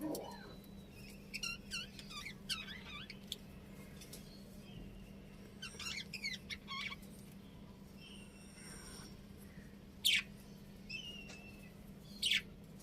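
Budgerigars chirping and chattering in short scattered bursts, with two sharper, louder calls near the end.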